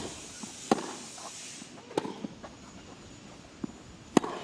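A few sharp knocks of a tennis ball on a grass court, the three loudest about 0.7 s, 2 s and 4 s in, with fainter knocks between.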